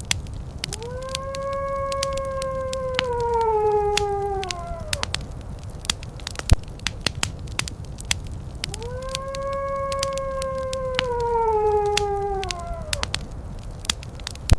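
Wood fire crackling with frequent sharp pops, under two long animal howls of about four seconds each, each holding a steady pitch and then falling away at the end.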